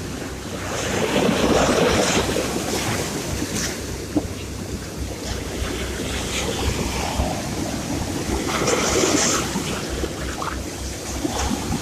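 Sea surf: waves wash in and swell about a second in and again near 9 s. A low rumble of wind on the microphone runs underneath.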